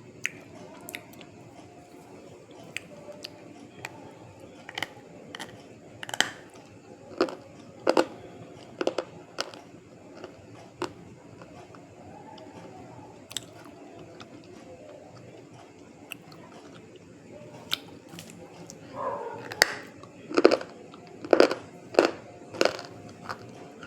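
Close-up biting and chewing of something hard and crunchy: sharp crunches come every second or two, then a louder, faster run of crunches near the end.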